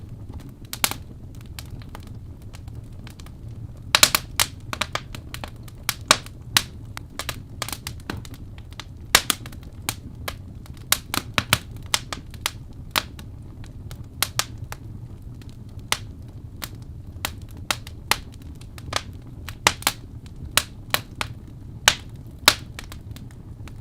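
Wood fire burning in a fireplace, logs crackling and popping in irregular sharp snaps over a steady low rumble of the flames.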